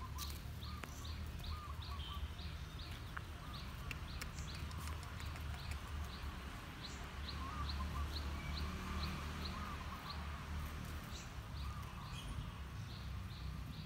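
A bird repeating a short, high chirp very regularly about twice a second, with other lower, wavering calls around it, over a steady low rumble.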